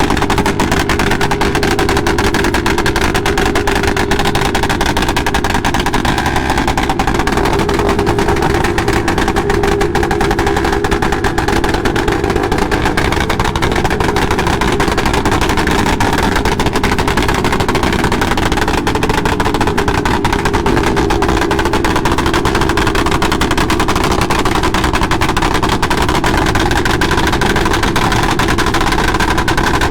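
Motorcycle engine running close by, a rapid, steady train of exhaust pulses.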